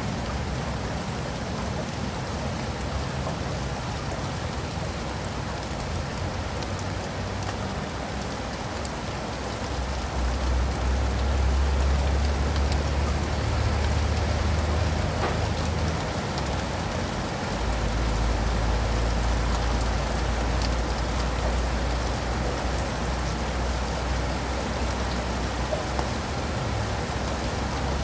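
Steady rain falling, an even hiss of drops. A low rumble swells up about a third of the way in and holds through most of the rest.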